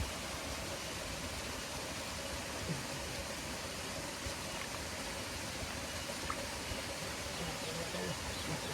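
Steady rushing of running water, like a small stream.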